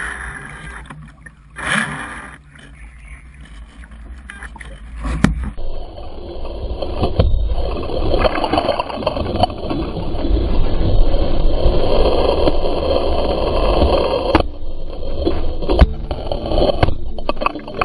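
Strong gusting wind buffeting the microphone, rumbling and rushing. The sound shifts abruptly about five seconds in, then grows louder and denser until near the end.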